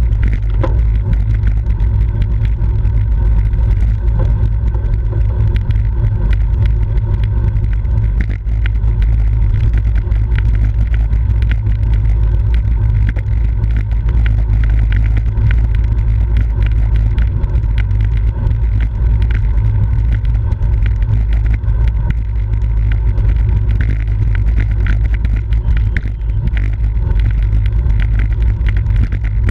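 Steady wind rush buffeting the microphone of a camera riding along on a racing bicycle, a loud low rumble with a hiss above it.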